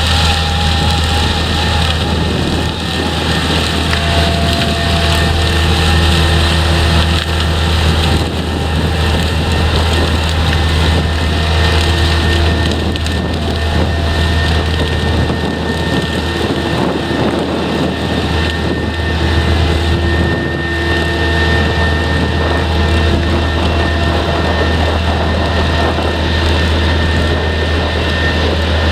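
Potato harvesting machinery running steadily: a deep, even engine drone under a continuous rattling clatter.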